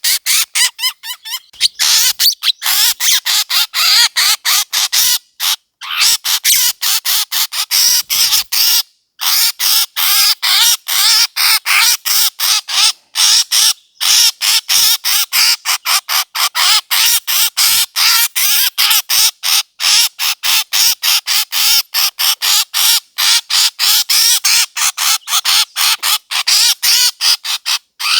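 Bird-call lure recording used for bird hunting: harsh, squawking bird calls repeated rapidly, about four a second, almost without pause.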